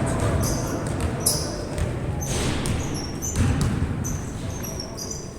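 Basketball game on a court: the ball bouncing with dull thuds, and many short, high sneaker squeaks on the floor.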